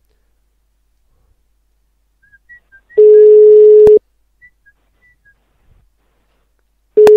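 Telephone ringback tone: a single steady low beep of about a second, repeating every four seconds, with a faint click or two. The called line is ringing unanswered.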